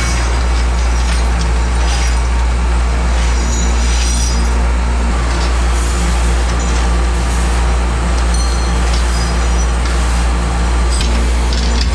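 Workshop machinery running with a steady low hum, with a few faint clicks over it.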